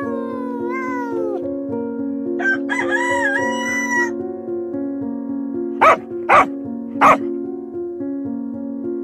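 Over steady background music, a cat's meow slides down in pitch and ends about a second in. A rooster then crows once, a long call from about two and a half to four seconds in. A little past the middle come three short, loud animal calls, the loudest sounds here.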